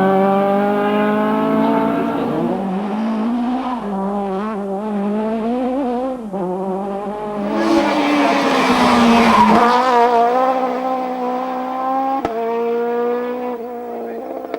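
High-revving rally car engine accelerating hard, its pitch climbing, then rising and falling as the driver comes on and off the throttle. A loud rush of tyre noise swells about eight seconds in and is the loudest part.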